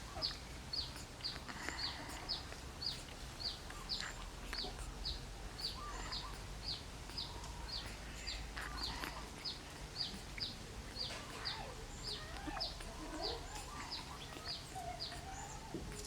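A bird chirping in a rapid, even series of short high chirps, about two to three a second, with a few fainter, lower calls in between.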